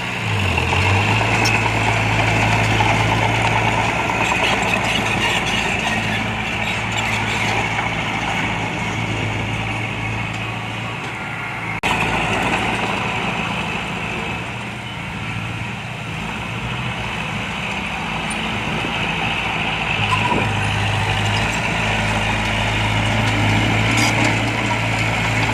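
Heavy diesel engine of earthmoving machinery running steadily. Its pitch dips briefly near the start and again about twenty seconds in, and there is one sharp click about twelve seconds in.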